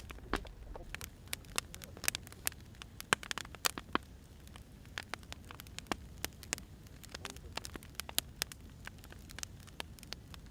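Wood fire crackling: irregular sharp pops and snaps of burning firewood over a low, steady rumble.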